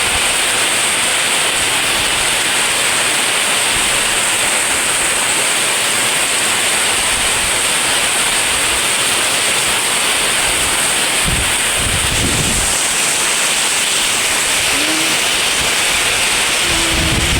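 Storm of strong wind and heavy rain making a steady, even hiss, with a brief low rumble about twelve seconds in.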